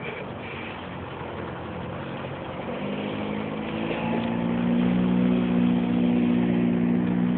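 A vehicle motor humming at a steady pitch, growing louder from about three seconds in.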